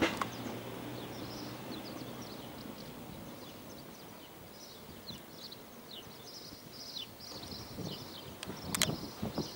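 Small birds chirping with many short, quick downward notes over a low outdoor rumble, with a click at the start and a few sharp knocks about nine seconds in.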